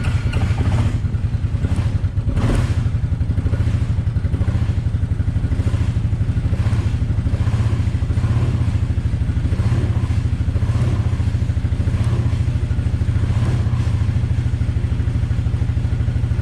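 Suzuki QuadRunner 250 ATV's single-cylinder four-stroke engine idling steadily in a fast, even beat, running just after a cold start at -13°F. There is a single knock about two and a half seconds in.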